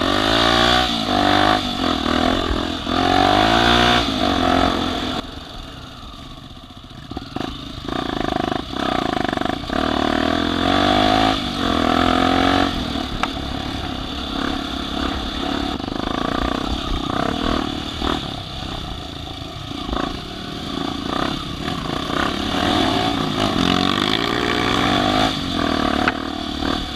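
Off-road vehicle engines revving hard, the pitch rising and falling again and again, with some clatter; the sound eases off briefly about six seconds in, then picks up again.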